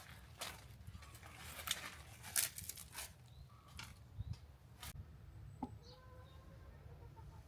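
A handful of sharp knocks and clicks of kitchen work in the first five seconds, then faint animal calls in the background near the end.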